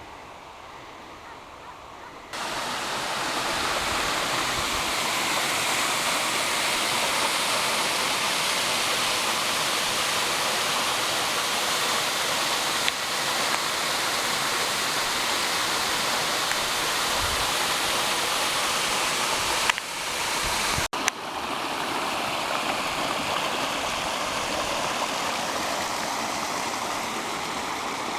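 Waterfall rushing: a steady, loud roar of falling water that cuts in suddenly about two seconds in, breaks off briefly a little after two-thirds of the way through, and carries on slightly softer.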